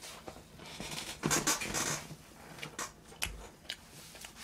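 A person chewing braised chicken, with wet mouth sounds and a few small clicks; the loudest stretch is a noisy rustle about a second in.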